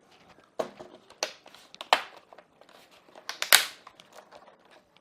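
Plastic crinkling with sharp clicks, from handling a laptop's screen, the display's peelable protective film still on it. The loudest click comes about three and a half seconds in.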